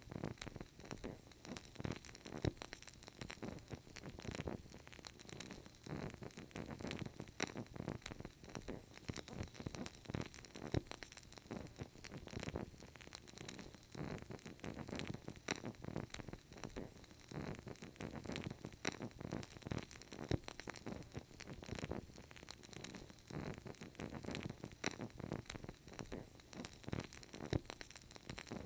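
Burning candle crackling: a dense run of small, irregular crackles and pops over a faint hiss.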